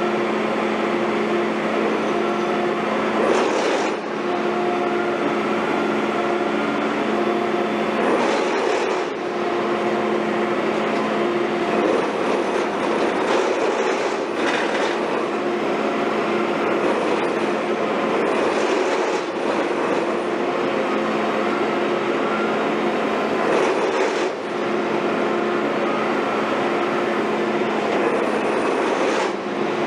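Heavy construction machinery running steadily, with a constant whine over the engine noise and a short hissing surge about every five seconds.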